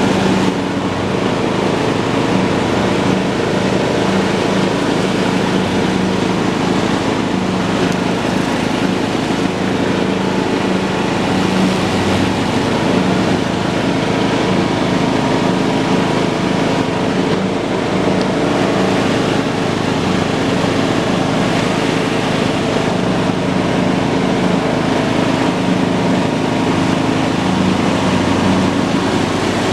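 A John Deere lawn tractor's engine running steadily while it mows grass: a constant drone that holds one speed throughout.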